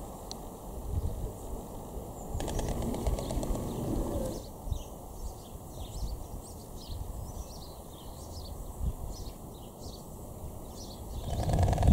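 Small birds chirping in many short, high calls from about four seconds in, over a low, steady outdoor rumble.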